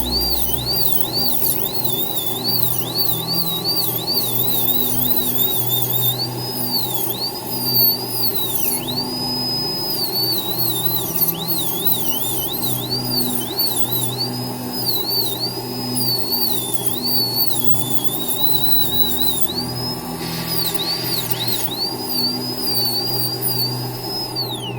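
High-speed dental lab handpiece whining steadily, its pitch dipping again and again and recovering as the bur bears on the work, over a steady low hum.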